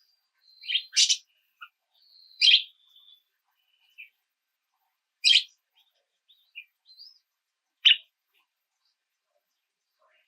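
Small birds chirping: short, sharp, high chirps, four loud ones spaced a few seconds apart, with fainter chirps between them.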